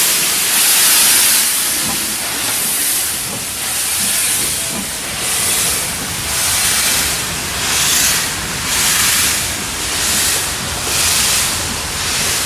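LMS Black 5 steam locomotive working slowly, its steam exhaust and hiss pulsing in a regular chuff about once a second.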